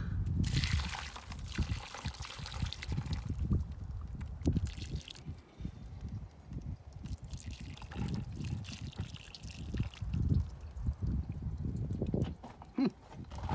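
Hot water being poured over a corroded car battery terminal, splashing and dripping, heaviest in the first few seconds and again briefly midway.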